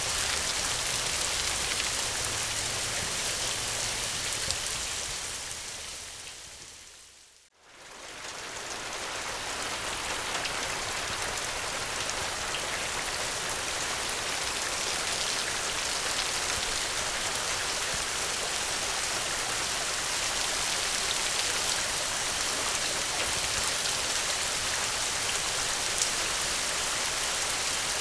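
Steady rain falling. About six seconds in it fades down to almost nothing, then swells back up within a couple of seconds and carries on evenly.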